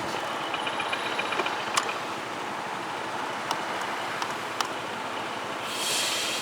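Steady road traffic noise with a few sharp clicks and a brief hiss near the end.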